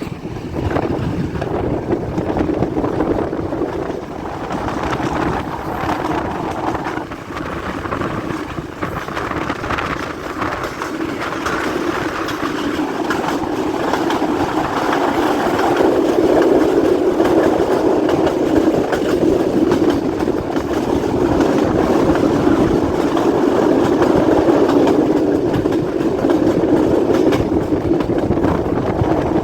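Passenger train running along the track, heard from aboard: a steady rumble and clatter of wheels on rails that grows louder about halfway through.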